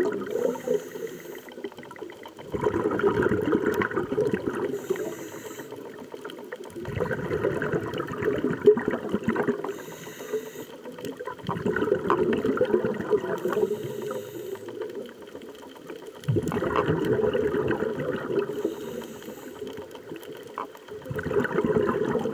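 Scuba diver breathing underwater through a regulator: about every four and a half seconds a burst of exhaled bubbles rumbles for two or three seconds, and a brief faint hiss of the demand valve on each inhale falls between the bursts.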